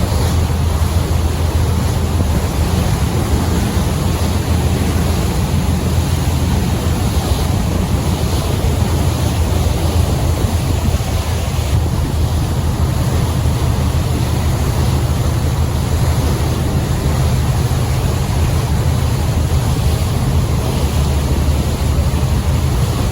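Boat under way: a steady engine drone with wind buffeting the microphone and water rushing past the hull.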